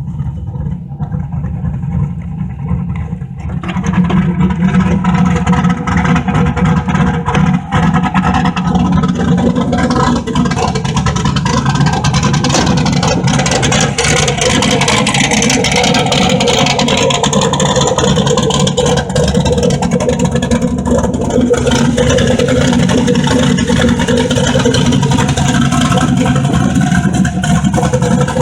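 Turbocharged LS V8 in a 1986 Chevrolet Caprice running, then pulling louder about three and a half seconds in as the car is driven under throttle, and holding that steady load.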